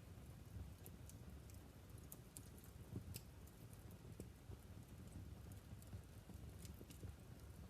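Wood fire burning in a fireplace, crackling faintly: irregular sharp snaps and pops over a low steady rumble.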